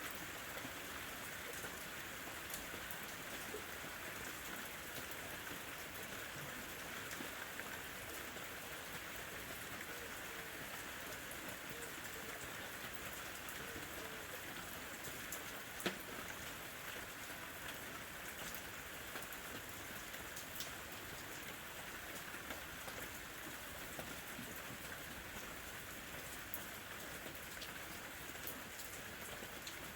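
Steady, light rain falling and pattering on a surface, an even hiss with scattered individual drop ticks and one sharper drop about halfway through.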